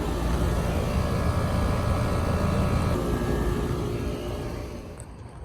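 Trane XB-series outdoor air-conditioner units running: a steady rush of condenser fan noise over a low, even hum, growing quieter about four and a half seconds in.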